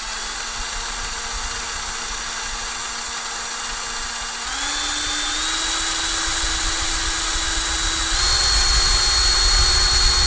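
Power drill spinning a corn cob, its motor whining steadily and stepping up in pitch and loudness three times as the trigger is squeezed harder.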